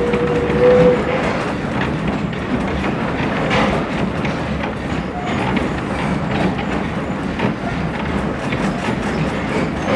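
Passenger railroad coach running along the track: a steady rumble and rattle of the wheels on the rails and the car body, with a held tone that ends about a second in.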